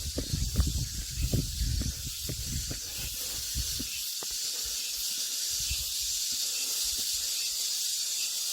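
Cicadas droning in chorus, a steady high buzz. Low thumps and rustling of handling noise sound over it for the first few seconds.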